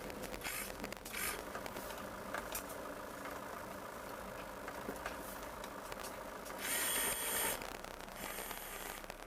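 A vehicle engine running steadily, with a brief burst of hissing noise about seven seconds in that is the loudest thing heard.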